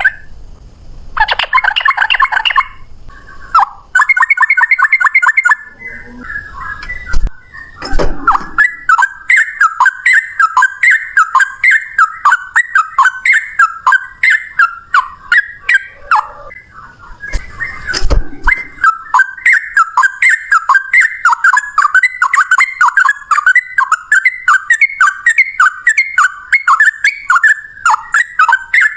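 Sooty-headed bulbul (trucukan) singing its loud 'ropel' song: long, fast runs of the same short note repeated over and over, with a few short song bursts before them and a couple of sharp knocks along the way.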